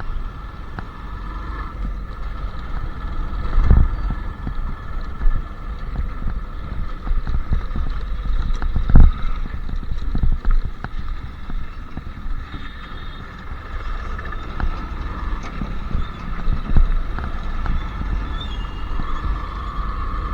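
Royal Enfield Classic 350 Reborn's 349 cc single-cylinder engine running on the move, heard from the rider's seat, with a low pulsing exhaust note. A couple of heavier thumps come about four and nine seconds in.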